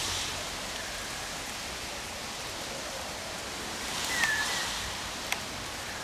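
Steady hiss of light rain falling. About four seconds in, a brief high chirp drops in pitch, and a sharp single click follows about a second later.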